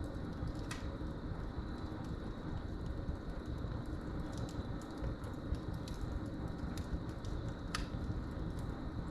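Wood fire burning in a fireplace: a steady low rumble of the flames with scattered sharp crackles and pops, two of them louder, about a second in and near the end. A faint, steady high cricket trill runs underneath.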